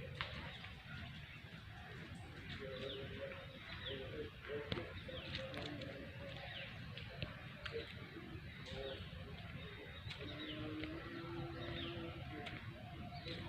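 Birds calling: low cooing notes mixed with many short, high, falling chirps, over a steady low rumble.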